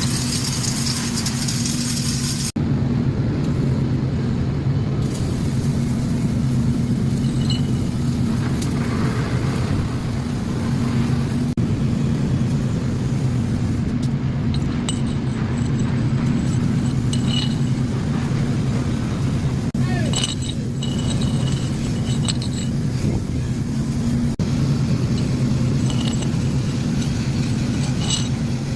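Flux-cored arc welding with 1.2 mm wire under 80% argon / 20% CO2 shielding gas at about 200 A and 21 V: the arc runs steadily and continuously, with a few brief dropouts.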